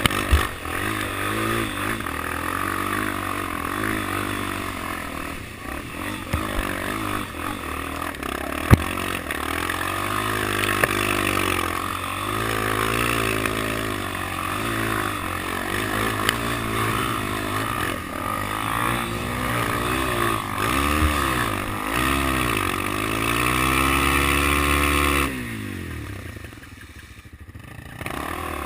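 Motorcycle engine revved over and over, its pitch rising and falling in waves, with one longer climb near the end before the revs drop away. A single sharp crack about 9 seconds in.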